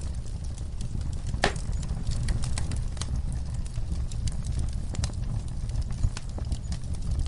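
Wood fire crackling: scattered pops and snaps at an uneven pace over a steady low rumble, with one louder pop about a second and a half in.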